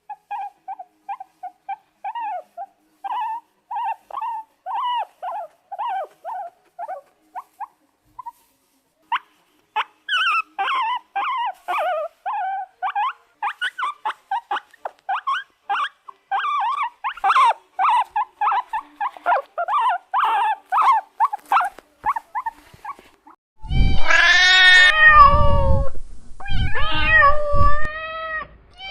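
Kittens mewing in quick, short, high cries. From about ten seconds in, several overlap. Near the end come a few louder, longer meows that fall in pitch.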